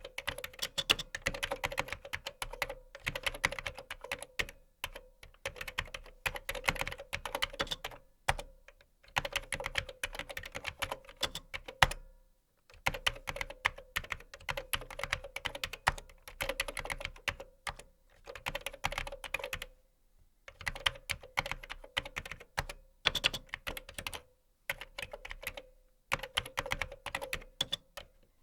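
Typing on a computer keyboard: quick runs of keystrokes clattering, broken by brief pauses about every few seconds.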